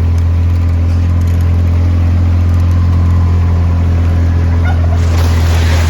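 A vehicle's engine drones steadily at an even pace. Near the end, a hissing noise rises over it.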